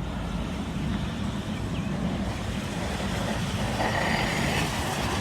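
A rail vehicle on the CSX tracks passing close by, a steady rumble that grows brighter and louder about four seconds in.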